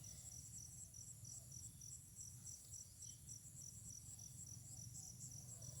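Faint, high-pitched insect chirping, a steady pulse of about four to five chirps a second over a continuous higher trill.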